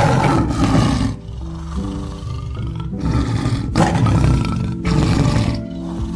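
A wild animal growling in several harsh bursts, the first right at the start and three more in quick succession in the second half, over background music with long held notes.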